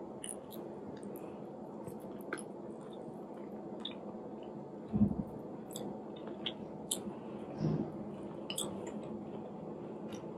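A person chewing food: wet chewing with many small mouth clicks and smacks, and two soft low thumps, one about five seconds in and one near eight seconds.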